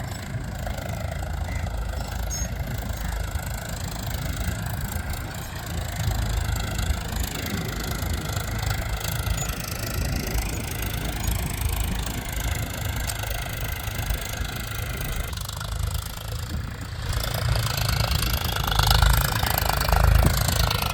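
Tractor engine running steadily while pulling a cultivator through the soil. It grows louder over the last few seconds.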